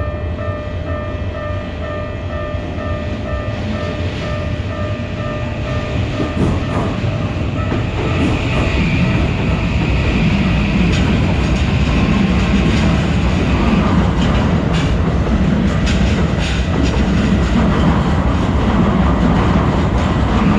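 Japanese railroad crossing alarm ringing in a steady repeated ding. A train then passes through, its rumble building from about six seconds in, with wheels clicking over rail joints.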